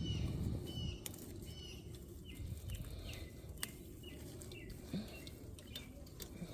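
A bird chirping over and over, a short falling call repeated a little faster than once a second, fading out about halfway through. Underneath is a low rustling with a few clicks, as grass is pulled up by hand.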